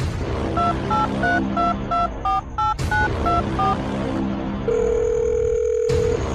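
Telephone touch-tone keypad beeps: about ten short two-note beeps in quick succession, then a single steady tone lasting about a second and a half, over background music.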